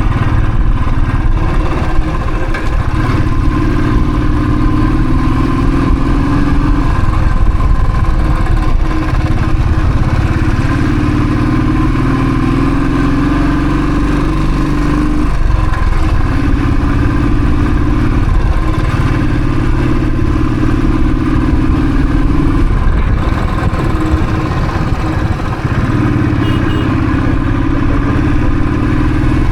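Royal Enfield Thunderbird's single-cylinder engine running on the move, its note swelling and easing about six times as the throttle opens and closes.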